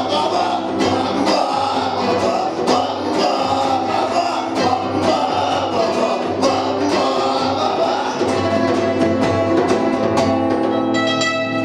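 Punk rock band playing live, with guitar and regular drum hits. About ten seconds in the drumming stops and a final chord is left ringing as the song ends.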